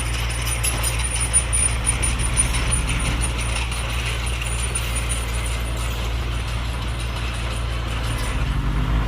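Heavy diesel engine of an earthmoving machine running steadily, with light metallic clanks in the first few seconds. The engine revs rise near the end.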